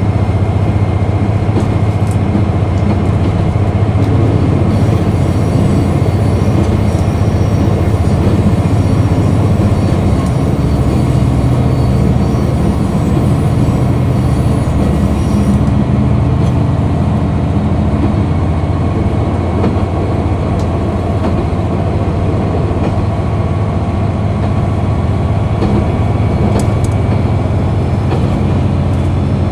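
Diesel engine of a KiHa 261 series diesel express railcar, running loud and steady under power, with the rumble of the wheels on the rails.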